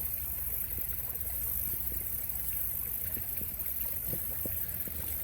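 Creek water running steadily, with a low rumble underneath and a few faint ticks.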